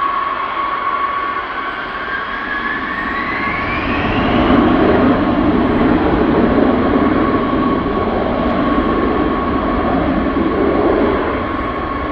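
B-52 Stratofortress's eight jet engines: a steady high whine, with a second whine rising in pitch over the first few seconds. From about four seconds in, a loud low rumble takes over as the bomber takes off under full thrust.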